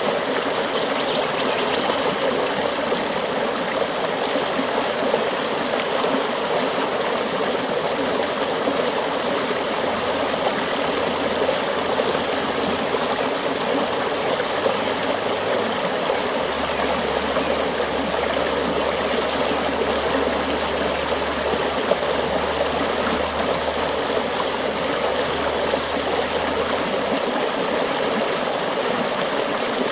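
Creek water flowing over rocks: a steady, even rush of running water.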